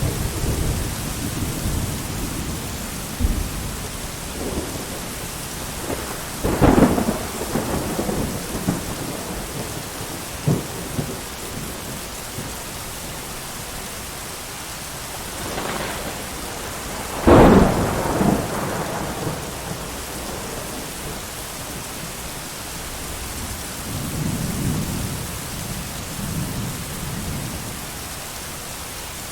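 Thunderstorm: steady heavy rain with rolling thunder. Sharp thunderclaps come about seven and seventeen seconds in, the second the loudest, with low rumbles near the start and again near the end.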